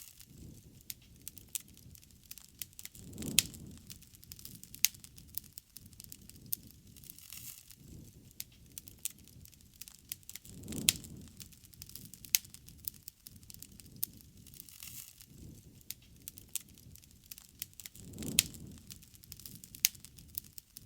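Wood fire burning with frequent sharp crackles and pops, and soft low whooshing swells about three times.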